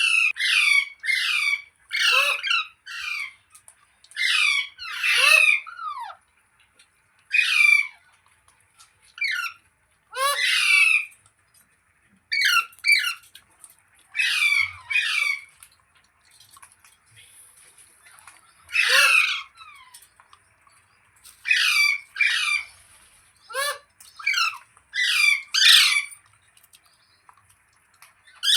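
Green parrot squawking: harsh, screechy calls, mostly in quick runs of two or three, repeated with short pauses.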